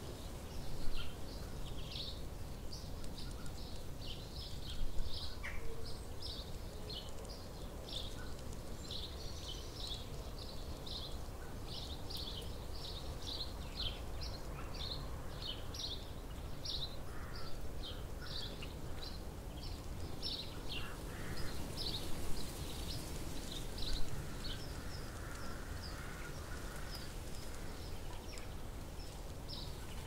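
Small songbirds chirping, short high notes two or three a second, over a steady low background rumble, with a few brief louder sounds.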